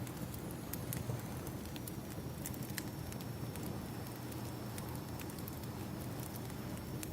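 Wood fire crackling with irregular sharp pops, over a steady low wash of ocean waves: an ambient campfire-and-surf sound track.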